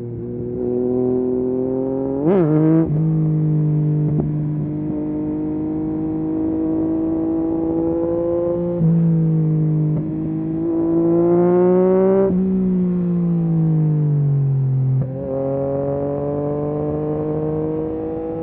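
Yamaha MT-09 SP's three-cylinder engine through a full Akrapovic race exhaust, pulling through the gears. There is a sharp rev blip about two seconds in, then rising engine notes broken by abrupt steps at gear changes, and a long easing-off with falling revs before it pulls again near the end.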